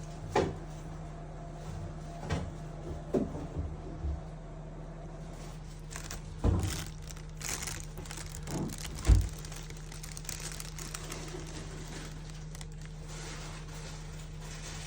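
Scattered knocks and thumps, about seven in the first nine seconds, over a steady low hum.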